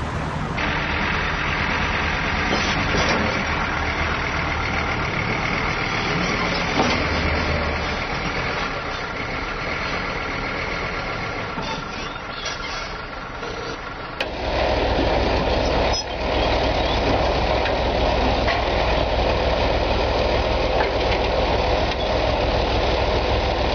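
Heavy vehicle engines running steadily, with a low drone. The sound changes abruptly about fourteen seconds in, where a different, louder low engine hum takes over.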